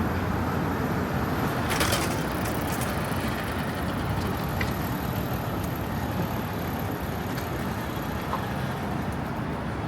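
Steady road traffic noise of passing vehicles, with a brief rattle about two seconds in.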